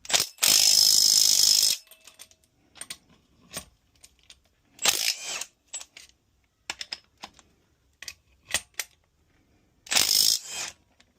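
Metal-on-metal clicks and clinks of tools and small parts while the cam vernier pulleys are taken off an Evo's cylinder head, broken by three brief loud bursts of noise, the first and longest about half a second in.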